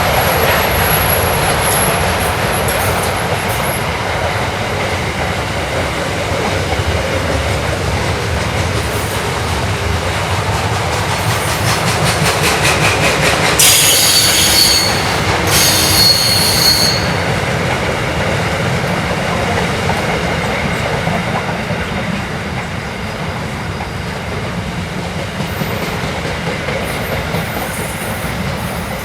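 Freight train wagons rolling past with a steady rumble and clatter of wheels on rail. About halfway through, the wheels squeal twice in short high-pitched bursts.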